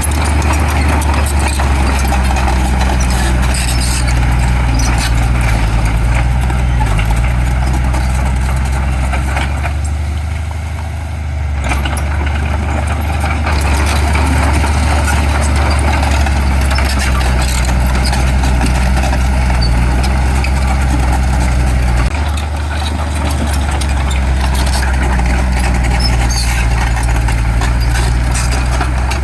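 Heavy diesel engine of earthmoving machinery running steadily. The level dips briefly about ten seconds in, and the engine note shifts a little after twenty seconds.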